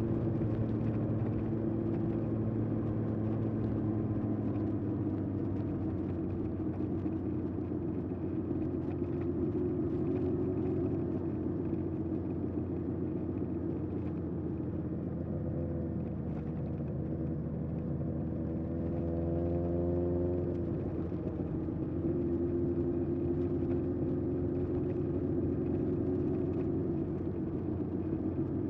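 1981 Honda CB750F's air-cooled inline-four running through a period Yoshimura exhaust under way, at steady revs. About nineteen seconds in, the revs climb briefly and then fall back.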